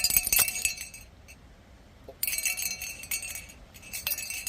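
Small metal tags on a dog's collar jingling and clinking as the dog moves about; the jingling stops about a second in and starts again about a second later.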